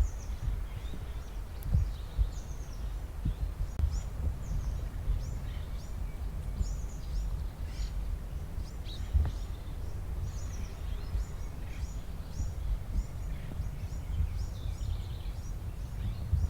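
Many small birds chirping in quick, scattered calls over a low, steady rumbling background.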